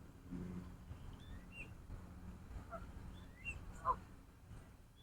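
Birds calling: short chirps come every second or so, with one louder call about four seconds in, over a faint low background rumble.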